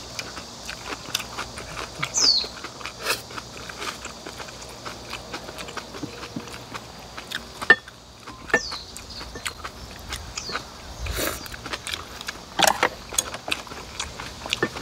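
Close-up eating sounds of napa cabbage kimchi and rice being chewed, with many short crunches and clicks of chopsticks against glass bowls. A few short high falling chirps come and go.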